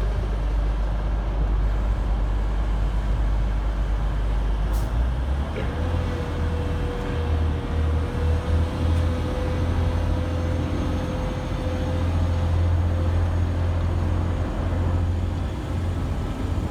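Two coupled Class 185 diesel multiple units, each car with a Cummins diesel engine, running at the platform, then opening up about five and a half seconds in as the train pulls away. The low drone rises in pitch and a steady whine sounds over it for several seconds.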